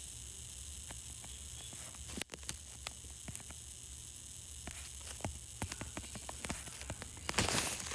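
Faint steady hum and hiss inside a moving subway car, with scattered light clicks and one sharp click a little over two seconds in. A louder rush of hiss swells briefly near the end.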